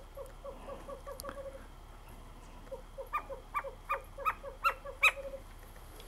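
A bird's rapid series of short, low, evenly spaced notes, about three a second, in two runs. In the second run, louder and higher notes join in and grow loudest near the end.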